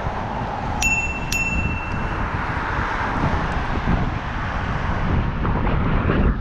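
Wind buffeting the microphone throughout, with a bell struck twice in quick succession about a second in, each strike ringing briefly, like a bicycle bell.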